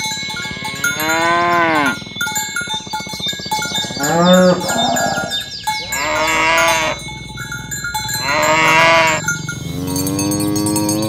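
Cattle mooing: about five long moos one after another, each rising and then falling in pitch, at slightly different pitches. Steady bell-like ringing tones sound behind them throughout.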